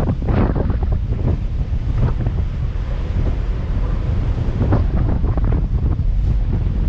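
Strong wind buffeting the microphone, a heavy low rumble with irregular gusts, over the rush of sea water along a ferry's hull.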